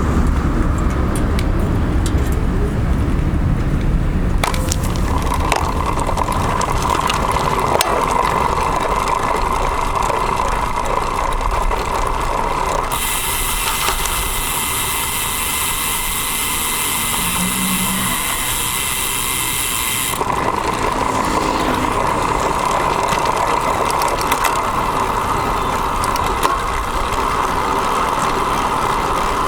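Road bike's rear freehub ticking steadily while coasting, heard through the bike-mounted camera. The sound begins about four seconds in, after some rumble. For several seconds around the middle a bright high hiss with whine-like tones is heard over it.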